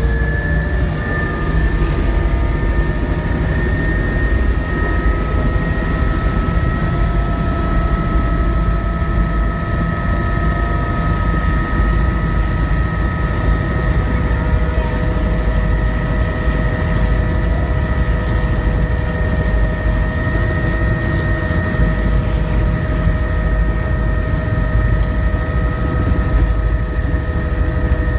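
Helicopter in flight: steady, loud rotor and engine noise with a low rumble and several high, steady whining tones over it.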